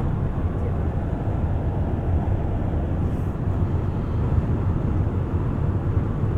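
Steady low rumble of a moving bus, engine and road noise mixed, heard from inside the bus.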